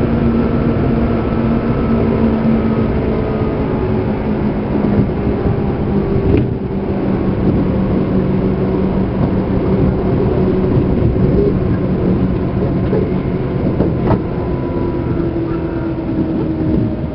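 Seibu Railway New 2000 series train heard from inside motor car MoHa 2291 while running: a steady loud rumble with a motor and gear whine of several tones that slowly falls in pitch. Two brief sharp clicks come about 6 and 14 seconds in.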